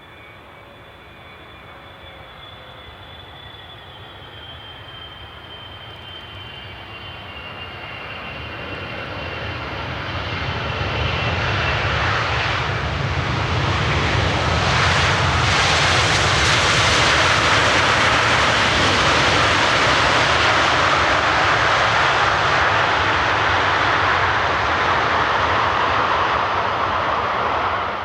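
Jet airliner passing close by: its engine noise swells from faint to loud over about a dozen seconds, with a high whine slowly falling in pitch at first, then holds as a steady loud roar that cuts off suddenly at the end.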